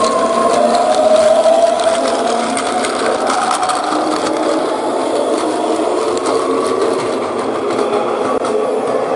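Battery-powered Plarail toy trains running on plastic track: a steady whir of small motors and gearboxes, with a pitch that slowly drifts and light clicking from the wheels.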